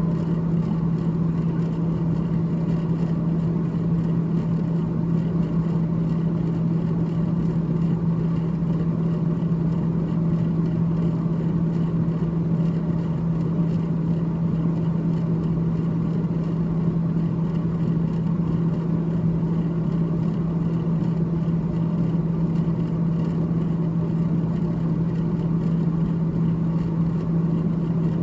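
Freezer fan of a GE GTH18XCTZRBB refrigerator running steadily, a constant low hum over a whirring rush of air.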